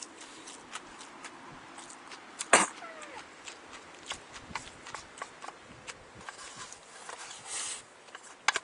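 Close-up chewing and lip-smacking: a run of quick wet clicks from a mouth eating food, with one much louder sharp click about two and a half seconds in and a brief hiss near the end.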